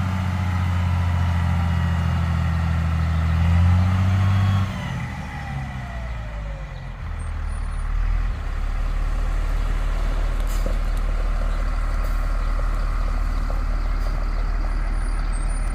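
Tree-service chip truck delivering a load of wood chips: its engine runs at raised revs, then drops about five seconds in and settles to a low steady idle.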